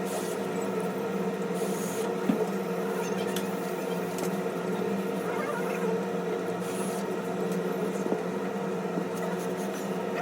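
Steady hum with several pitched tones, like workshop equipment running, with a few faint small clicks.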